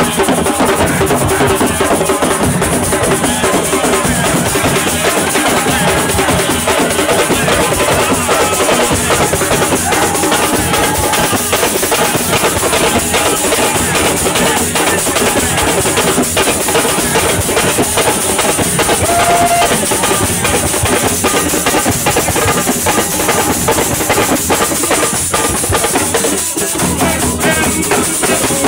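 Music with steady, dense drumming that runs without a break.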